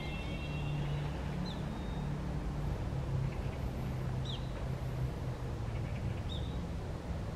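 Three short, high bird chirps, about two seconds apart, over a steady low rumble.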